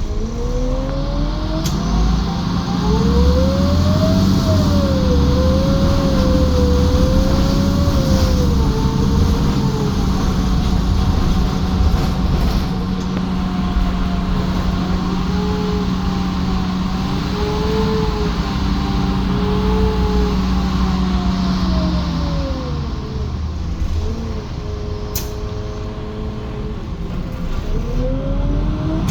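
Compressed-natural-gas engine of a Menarinibus Citymood 12 city bus pulling hard under acceleration, revs rising over the first few seconds and held high with a whine that rises and falls alongside. The revs drop about three-quarters of the way through, then climb again near the end.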